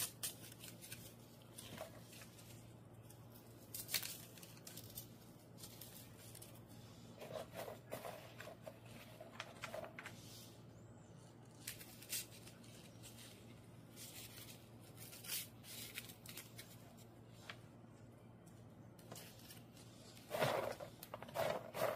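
Faint, scattered clicks and rustles of hands picking up, pulling apart and pressing small Funnycorn corn-starch craft pieces, over a low steady hum.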